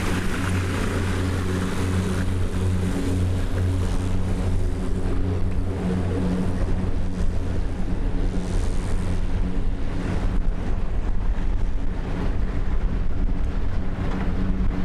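An engine running steadily at an even pitch, with wind buffeting the microphone and water noise underneath.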